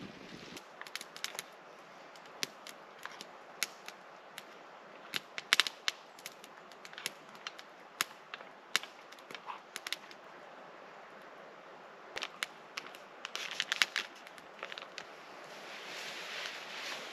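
Beef strips and garlic frying in a pan: a steady sizzle, with fat spitting in sharp, irregular pops. The sizzle swells louder near the end.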